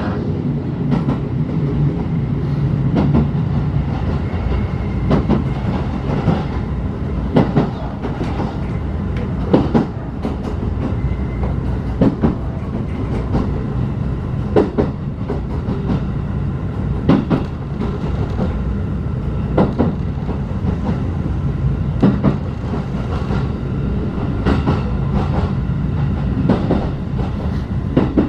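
Inside a locomotive-hauled passenger coach on the move: a steady low running rumble, with the wheels clicking over rail joints about every two and a half seconds.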